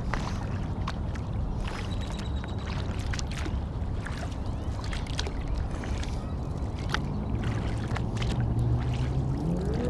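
Sit-inside sea kayak being paddled: water lapping and splashing against the hull with small paddle drips and knocks over a steady low rumble. Near the end a low hum comes in and rises in pitch.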